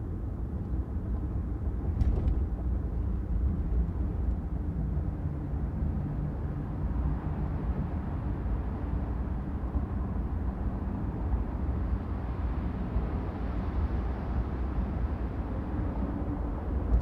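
Steady low rumble of a car driving on a city street, with road and traffic noise. The noise swells partway through and eases off again, and there is a short click about two seconds in.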